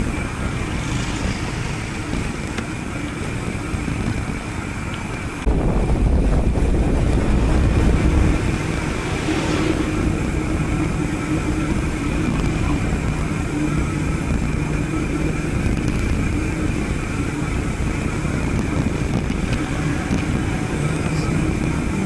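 Mountain bike riding noise picked up by a chest-mounted action camera: steady wind rumble on the microphone with rolling and rattling from the bike. The rumble gets suddenly louder about five seconds in and eases off a few seconds later.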